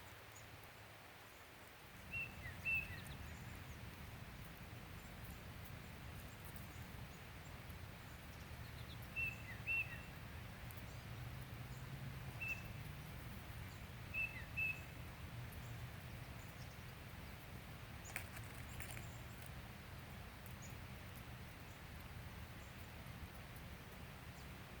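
Small bird giving short high chirps, mostly in quick pairs, four times over the stretch, over a steady low outdoor rumble that comes in about two seconds in.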